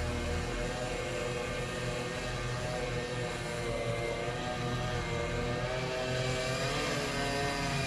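An engine running steadily; its pitch dips and rises again near the end.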